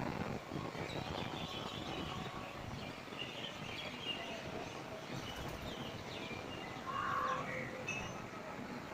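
Birds chirping in short scattered calls, with a louder call about seven seconds in, over steady low background noise.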